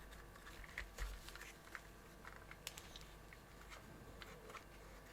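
Faint, scattered light clicks and taps of small parts being handled, a few of them a little sharper.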